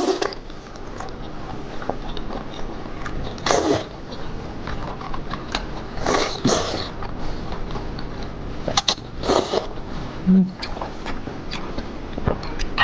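Close-miked eating of seafood: wet chewing and mouth noises with sharp clicks, and several louder wet bursts of sucking or slurping.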